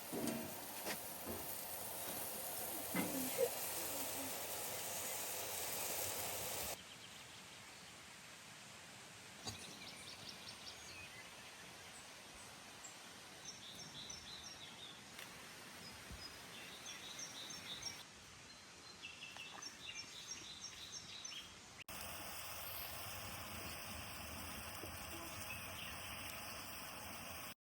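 Outdoor ambience in several edited segments: a few knocks at the start, short high chirps of small birds repeating through the middle, and a steady hiss near the end.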